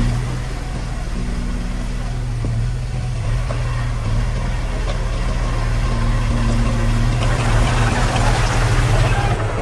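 Heavy diesel engine of earthmoving machinery running steadily, a little louder over the last couple of seconds.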